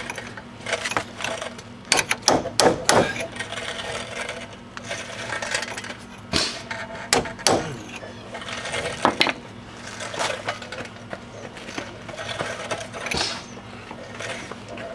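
Irregular metallic clinks and knocks of a chisel, struck and levered against an old wheel hub that is seized in place by rust.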